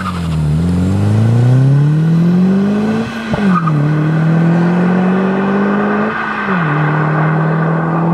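Turbocharged 1.8T 20-valve four-cylinder of a VW Golf 4 (Garrett GT28 turbo, 3-inch downpipe, 2.5-inch exhaust) accelerating hard away through the gears. The engine note climbs and drops at an upshift about three seconds in, with a short sharp sound at the shift. It climbs again and drops at a second upshift about six and a half seconds in.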